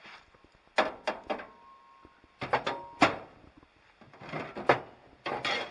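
Footsteps scuffing and knocking over debris on the ground, a dozen or so irregular sharp knocks in small clusters.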